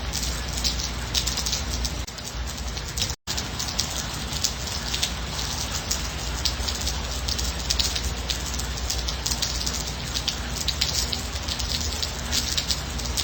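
Steady rain falling, a dense patter of many small drops. The sound drops out for a split second about three seconds in.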